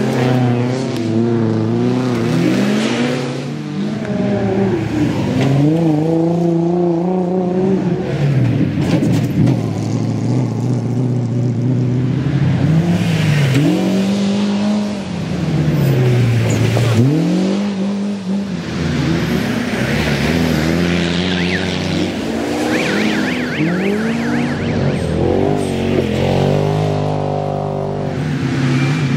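Off-road race cars' engines revving hard on a dirt track, the pitch climbing and dropping again and again with throttle and gear changes as cars pass and go round the course.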